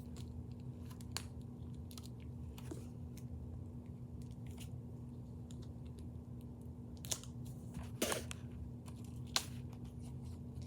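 A handful of scattered soft rustles and clicks from a paper book being handled and its pages turned, over a steady low hum.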